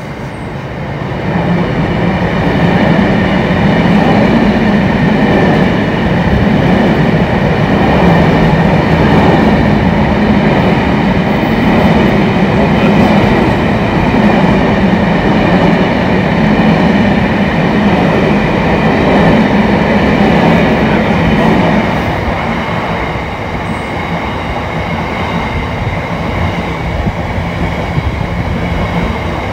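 A train passing close by, its wheels running on the rails. It builds up over the first couple of seconds, stays loud and steady, then eases off somewhat about three quarters of the way through.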